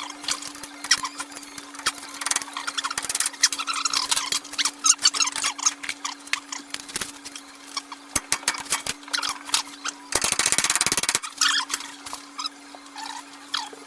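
Hand tools working on metal: scattered clicks, taps and small squeaks over a steady low hum, with a dense run of rapid clicks lasting about a second near ten seconds in.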